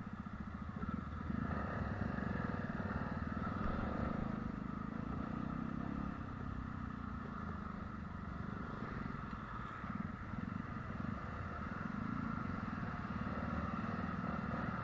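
A motor vehicle's engine running steadily while travelling, a continuous low rumble with road noise, rising and easing slightly now and then.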